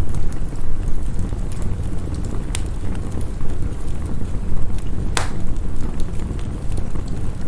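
Wood fire crackling, with scattered sharp pops and one loud pop about five seconds in, over a steady low rumble of storm wind.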